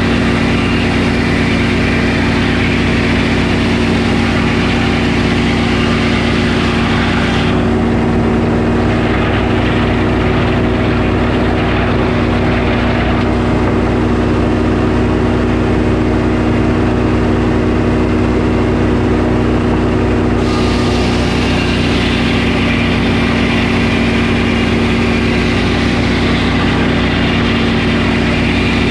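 Sawmill engine running at a steady speed. A hiss over the engine drops away about seven seconds in and comes back about twenty seconds in.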